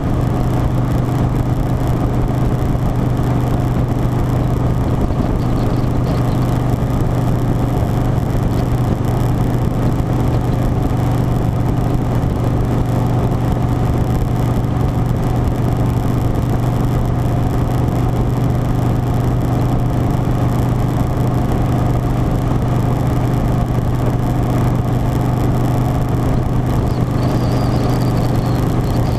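Harley-Davidson Softail Standard's V-twin engine running at a steady cruise, an even drone that does not change in pitch or level.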